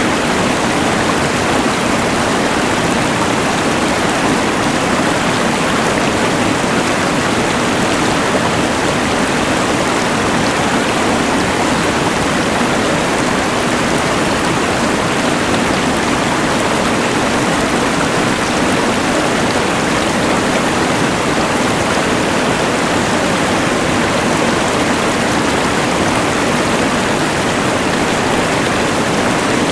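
A rushing mountain river blended with the steady hiss of a LectroFan white noise machine: an even, unchanging wash of noise with a fuller low rumble.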